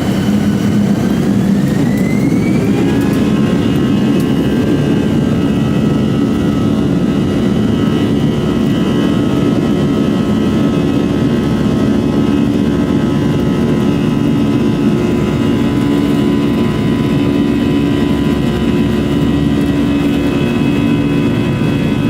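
Airbus A320 jet engines heard from inside the cabin, spooling up with a rising whine over the first few seconds and then running steadily and loud at takeoff thrust.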